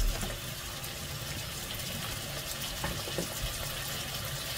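Frozen meatballs with peas and carrots sizzling and bubbling in hot olive oil in a pot, a steady watery hiss as the frozen food lets off water into the oil, with a few faint knocks of a wooden spoon.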